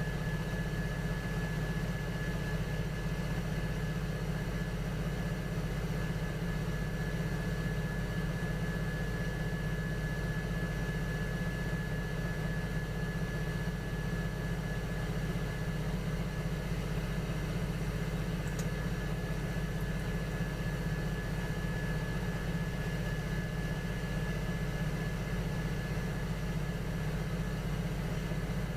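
Electric potter's wheel motor running steadily: a low hum with a thin, constant high whine.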